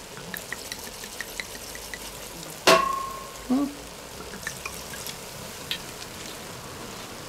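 Mushrooms and onions sizzling in a hot cast-iron Dutch oven as white wine is poured in, with light crackling pops in the first two seconds. About 2.7 s in there is one sharp clink with a brief ringing tone.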